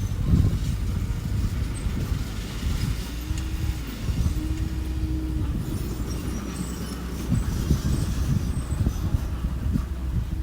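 Diesel engine of a small construction machine running with a low rumble, with a steady whine coming in twice briefly around the middle.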